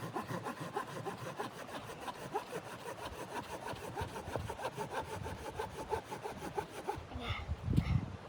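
Hand saw cutting through wood in quick, even strokes, with a heavier thump near the end.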